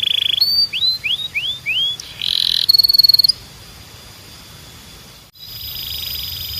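Canary song: a short rapid trill, then four rising whistled swoops, a buzzy note and a fast high trill about three seconds in. After a quieter gap of about two seconds, a thin steady high whistle starts.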